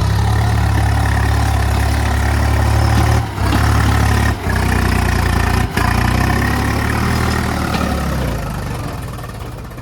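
Swaraj tractor's diesel engine running steadily under load, pulling a loaded trolley through mud. It drops out briefly three times and fades near the end.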